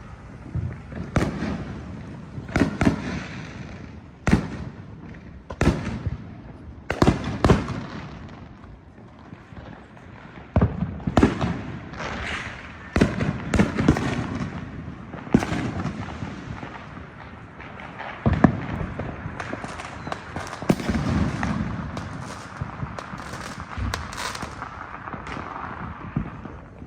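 Fireworks and firecrackers going off all around: irregular single bangs and strings of crackling pops, thickest about halfway through and again near the end.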